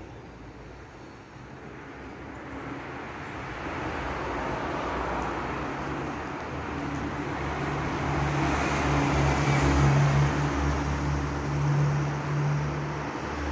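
A train drawing near, its rumble growing louder to a peak about ten seconds in, with a steady low engine drone under it.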